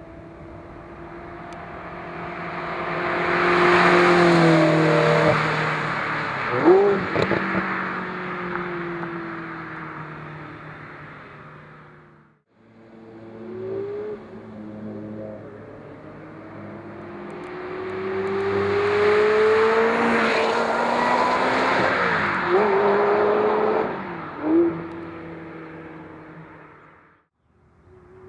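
Ferrari 360 Modena's 3.6-litre V8, breathing through a Maxflo sport muffler, driving past twice. Each pass builds to a loud peak, swings sharply in pitch with a brief loud burst, and fades away.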